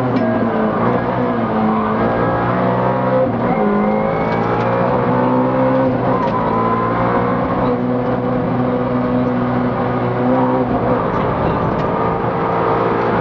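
Race car engine heard from inside the cabin, revving hard and rising in pitch, then dropping at each gear change, with several shifts in a row under full acceleration.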